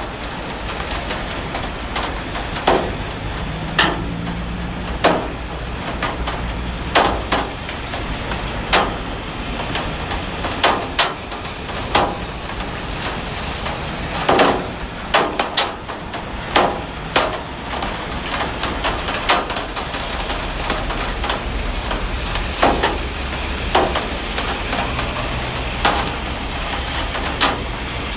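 Heavy rain falling as a steady hiss, with frequent sharp taps and knocks at irregular intervals standing out above it.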